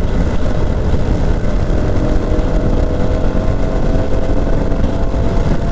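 Steady wind and road roar from a small Herald motorcycle riding at motorway speed through heavy rain, with the engine's steady hum coming through about a second and a half in.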